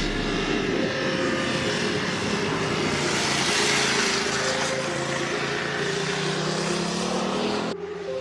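Motorcycle engine running under way with heavy wind and road noise, its pitch slowly rising as the revs climb in the second half, then a sudden break near the end.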